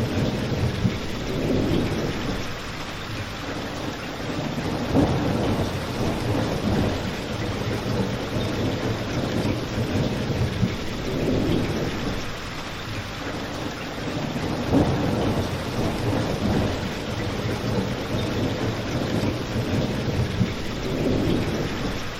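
Steady rain falling, with a low rumble that swells and fades every few seconds and a fireplace crackling.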